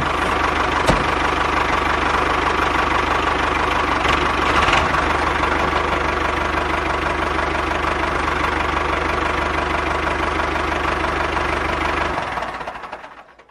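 Small engine running steadily at an even pace, fading out near the end.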